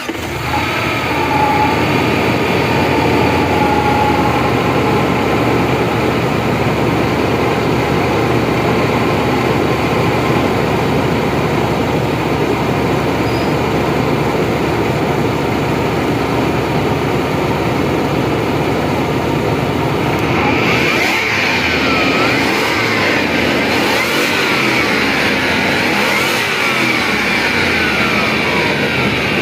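Range Rover V-engine running steadily just after starting, heard close up in the engine bay. From about two-thirds of the way in, a whine with a wavering pitch rises over the engine sound.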